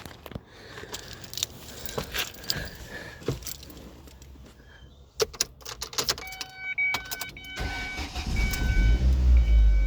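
Keys jangling and clicking in a 2003 Ford Escape's ignition, a repeating dashboard chime from about six seconds in, then the four-cylinder engine cranks, starts near the end and runs. It starts now that the burnt-out engine computer has been replaced and the key programmed to it.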